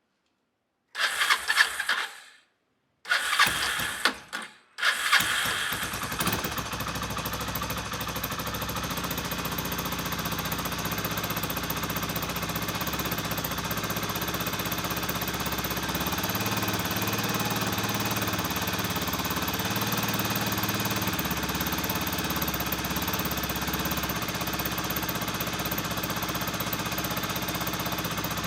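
Kawasaki Estrella's single-cylinder engine being started: two short bursts of cranking, then it catches on the third about five seconds in and settles into a steady idle.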